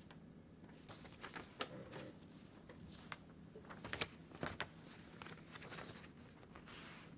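Faint scattered clicks and rustles, the loudest a pair of sharp clicks about four seconds in, over a low steady hum.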